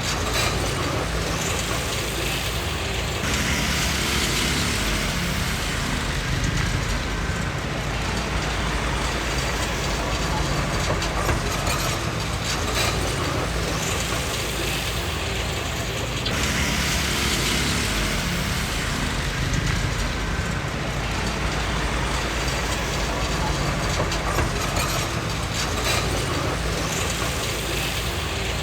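Komatsu D20P crawler bulldozer working: steady diesel engine rumble with the clanking rattle of its steel tracks. A louder hissing rush rises twice, a few seconds in and again a little past halfway.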